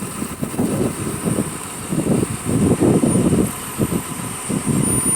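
Delivery truck's engine running, a low rumble that swells and fades, loudest in the middle.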